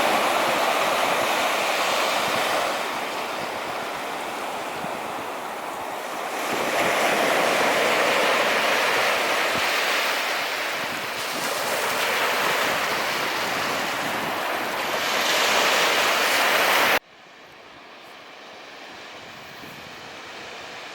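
Sea surf breaking on a beach, each wave swelling and falling away every few seconds, with wind on the microphone. About 17 seconds in it cuts off abruptly to a much quieter, duller steady background noise.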